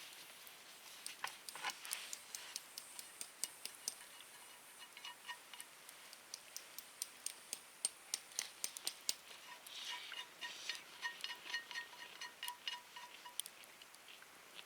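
Wood fire in a campfire stand crackling, with many sharp irregular pops and snaps. A faint rapid run of short high notes comes in briefly about five seconds in and again for a few seconds after the middle.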